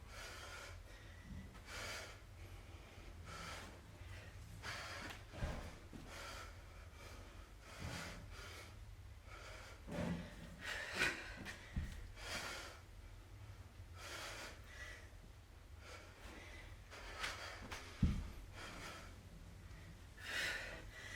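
A woman breathing hard in short, repeated breaths while exercising. A few dull thumps come in between, the loudest about eighteen seconds in, from feet landing on jump squats.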